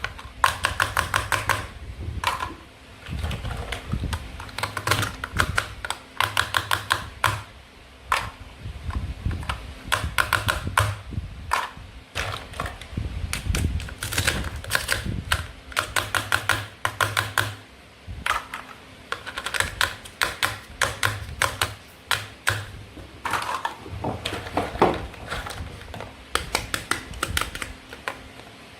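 Toy knife cutting through play-food fruit and vegetables. The sound comes as quick runs of sharp clicks, each run about a second long, over and over.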